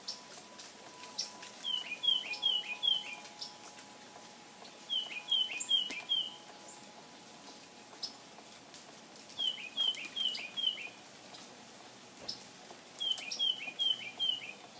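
Backyard songbird singing a short phrase of four quick down-slurred whistled notes, repeated four times about every three to four seconds, with sharp chip calls in between.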